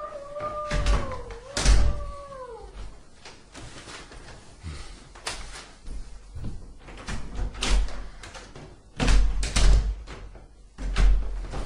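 A cat meowing in two long, drawn-out calls that fall in pitch at the end. These are followed by a string of heavy thuds and knocks like a door banging, loudest near the end, in a holophonic horror sound recording.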